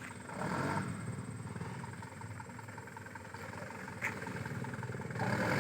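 Loaded truck's engine running under load as it works over a broken road, with a single sharp knock about four seconds in and the engine growing louder near the end.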